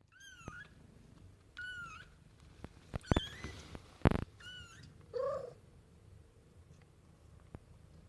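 Young Ragdoll kitten mewing: five short, high-pitched mews spread over the first five seconds, the last one lower. Sharp knocks sound around three seconds in, the loudest about four seconds in.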